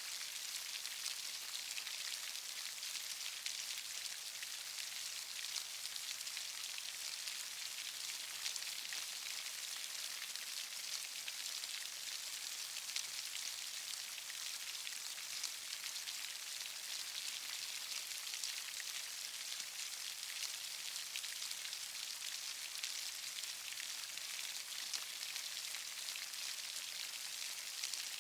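Steady rainfall, many fine drops pattering and crackling in an even hiss.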